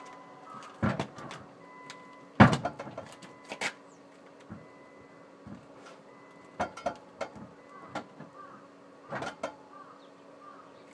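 Scattered knocks and clunks over a faint steady hum, the loudest about two and a half seconds in.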